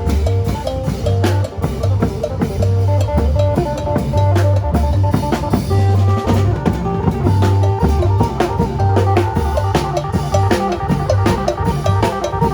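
Isan folk band playing lam phloen: an amplified phin melody over a drum kit with a heavy, steady bass-drum beat.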